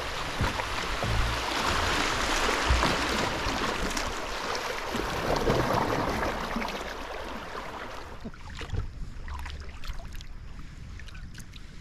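Rushing river water around a kayak passing through shallow, rocky swift water. After about eight seconds it eases to scattered small splashes and drips from paddling.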